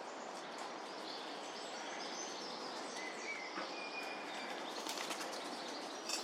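Small birds chirping faintly over a steady outdoor hiss, with a few sharp clicks near the end.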